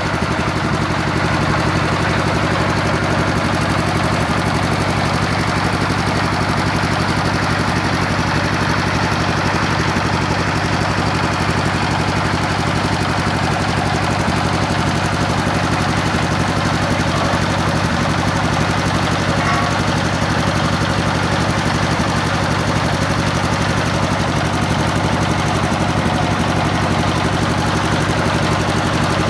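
Home-built water-well drilling rig with its motor running at a constant speed: a steady machine drone with a fine, rapid, even pulsing.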